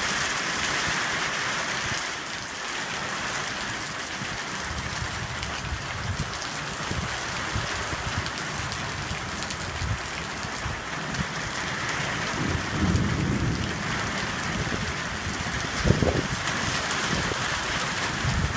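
Heavy thunderstorm rain pouring steadily, with low thunder rumbling in the second half and a sharper, louder clap about sixteen seconds in.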